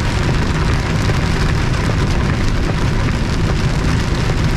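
Steady drone of a semi truck's engine and tyres heard inside the cab while driving in heavy rain, with an even hiss of rain and road spray over a deep rumble.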